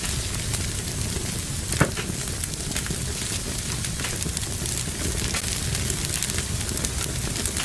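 Fire burning in a fireplace, crackling steadily over a low rumble, with one loud pop a little under two seconds in.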